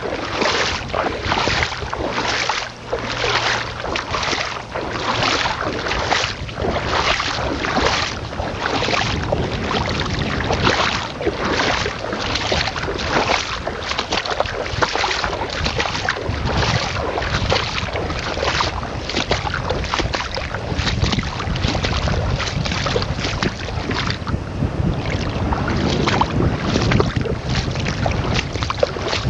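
Footsteps splashing and sloshing through shallow seawater in a steady walking rhythm, about one and a half steps a second, with gusty wind buffeting the microphone.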